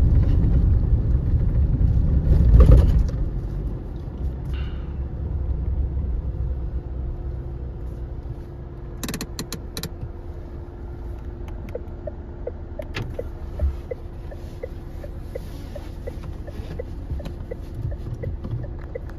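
Cabin sound of a Changan Hunter diesel pickup driving, loud low rumble that drops away about three seconds in as the truck pulls over and stops. Then a few sharp clicks at about nine seconds and another near thirteen, with a steady faint tone and a regular ticking about twice a second through the rest.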